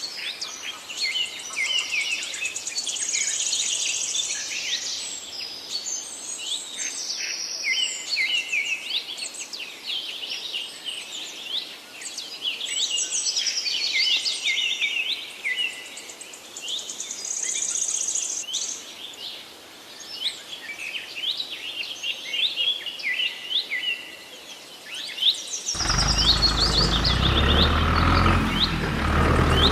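Small birds chirping busily, many short rapid calls overlapping. Near the end a louder, low, steady sound comes in and covers them.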